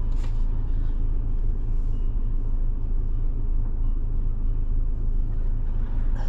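Car engine idling while stopped, heard from inside the cabin as a steady low rumble.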